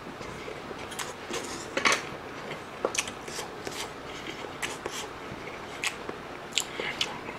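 Close-miked eating of army base stew (budae-jjigae): chewing and wet mouth smacks, with irregular sharp clicks from the mouth and the metal spoon.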